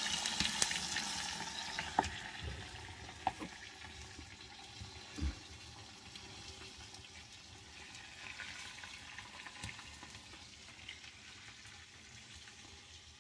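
Fat sizzling as it burns in a fireplace: a hiss that fades away, broken by a few sharp pops.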